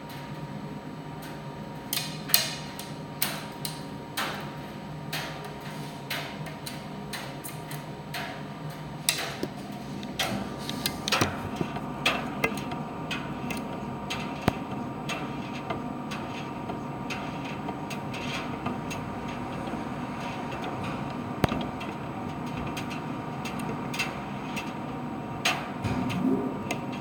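Primus tumble dryer running: a steady hum with a thin steady whine, over which irregular sharp clicks and knocks, somewhat more than one a second, come from the tumbling drum.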